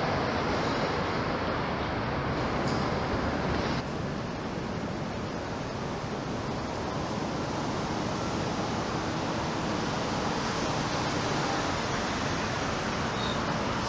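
SEPTA Silverliner IV electric commuter train running away from the listener with a steady rush. About four seconds in, the sound cuts suddenly to a slightly quieter, even rushing background noise with no distinct events.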